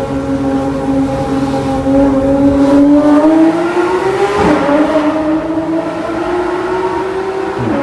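Porsche 911 GT3 RS 991.1's naturally aspirated 4.0-litre flat-six, through an Innotech (iPE) exhaust, pulling under acceleration with its pitch climbing. The note drops sharply with an upshift about halfway through and again near the end.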